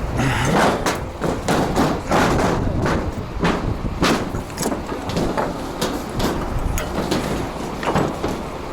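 Truck engine running with many irregular knocks and clanks of metal over it.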